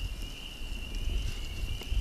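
A steady, unbroken high trilling chorus of tree frogs, under a rough low rumble of wind on the microphone that swells about when the trilling is heard and is the loudest thing present.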